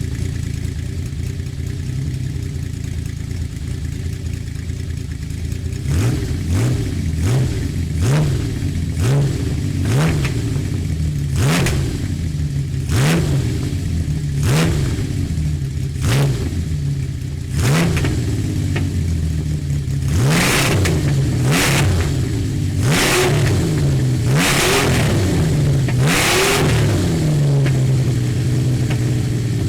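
Benelli 900 Sei's six-cylinder engine idling, then blipped over and over: about a dozen short throttle revs, followed by several longer, higher revs before it settles back to idle near the end.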